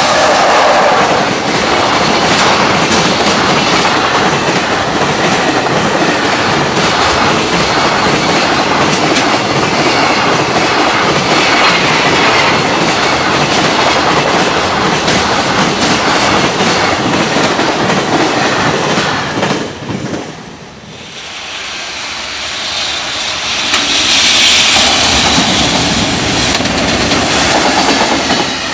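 Freight container trains passing at speed, their wheels clattering rhythmically over the rail joints. The sound breaks off and falls away about twenty seconds in, then a second train comes in and grows loud as it passes.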